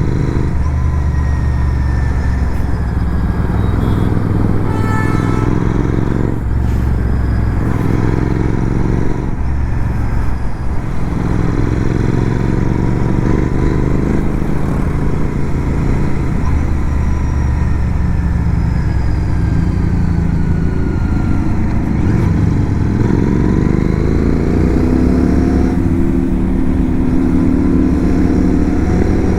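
Motorcycle engine running on the move, its pitch climbing under acceleration and dropping again several times as it works through the gears, over steady wind and road noise.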